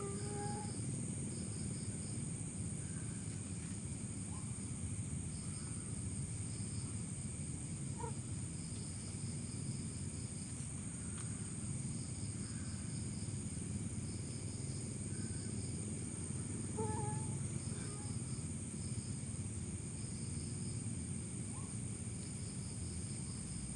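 Insects chirping in short repeated trains, cricket-like, over a steady high insect whine and a low steady rush of background noise.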